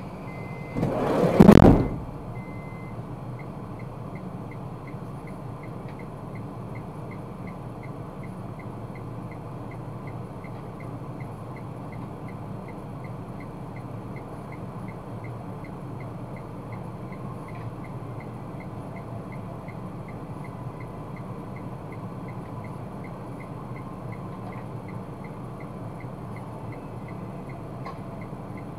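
A car's interior heard from a dashcam: a loud rushing thump about a second in, then a steady low engine and road hum with a faint, regular light ticking about twice a second.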